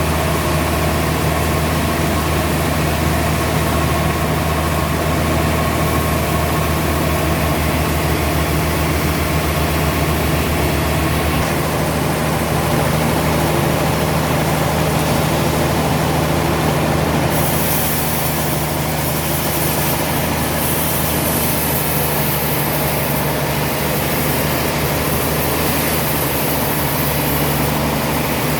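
Heavy sawmill machinery running with a steady, loud, low engine drone. About twelve seconds in the low drone shifts, and from about seventeen seconds a brighter hiss joins it.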